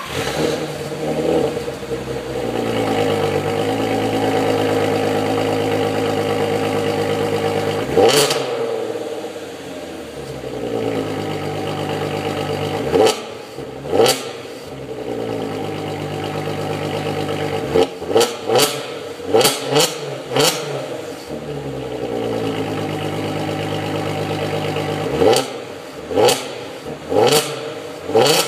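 3.6-litre VR6 engine of an R36 Golf idling just after a cold start, with quick throttle blips that briefly rev it up and drop back: a single blip, then a pair, then rapid runs of four or five blips.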